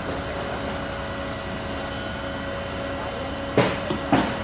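Construction machinery running with a steady droning hum, then two sharp, loud knocks about half a second apart near the end.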